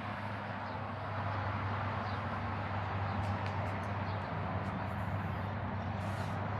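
Steady low mechanical hum under a constant rushing background noise, with faint short chirps and clicks now and then.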